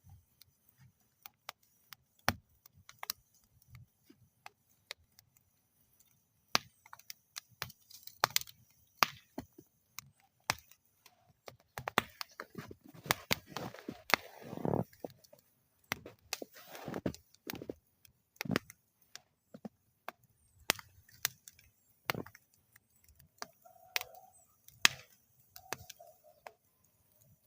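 Wood fire crackling in a metal fire bowl: irregular sharp pops and snaps, with a denser run of crackling and hiss about halfway through.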